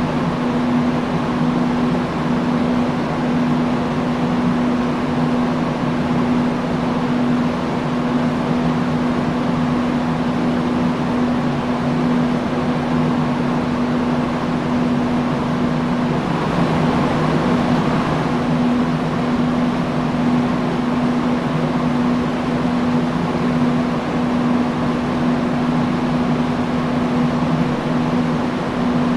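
Industrial fan running steadily: an even rush of air with a constant low hum from the motor. Around two thirds of the way through the hum briefly drops out and the rush swells a little before settling back.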